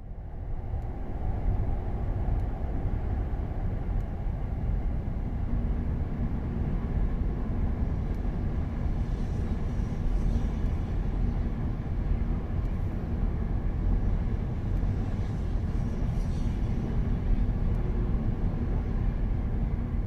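Steady low rumble of a Tokaido Shinkansen train running, heaviest in the bass, with no clear rise or fall.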